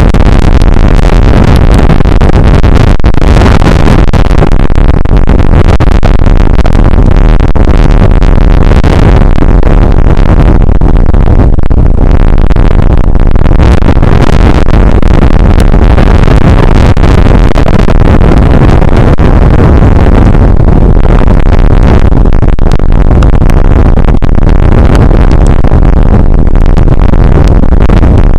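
Rain shower picked up by an outdoor weather camera's microphone as a very loud, steady wash of noise with no pauses.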